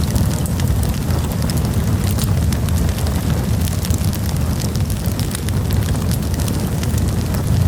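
Campfire crackling, with many small irregular pops and snaps over a steady low rumble.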